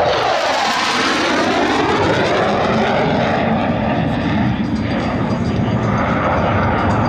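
Blue Angels F/A-18 Hornet jets passing by loud, a steady jet roar. In the first couple of seconds it has a sweeping, phasing whoosh as the aircraft goes past, then it settles into a continuing rumble.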